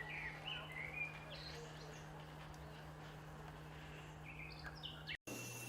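Small birds chirping: a few short calls in the first second and another cluster about a second before the end, over a faint steady low hum. The sound cuts out for an instant near the end, and a different background with a steady high tone follows.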